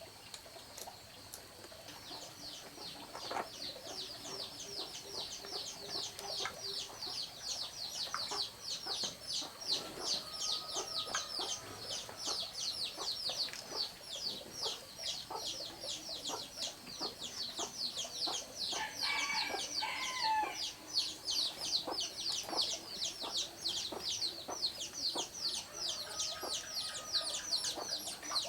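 Many chicks peeping in a rapid, overlapping stream of short high downward chirps, starting about two seconds in, with scattered light knocks beneath and a lower call from an adult bird near the middle.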